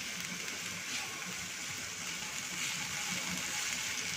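Red bell pepper strips sizzling steadily in hot oil in a frying pan as they are sautéed and stirred.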